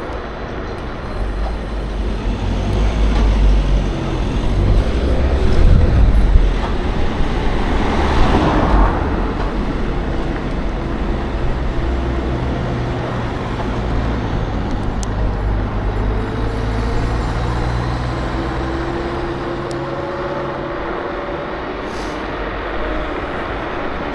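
Wind rush and road noise from riding an electric scooter in town traffic, with a passing vehicle swelling up and fading away about six to nine seconds in.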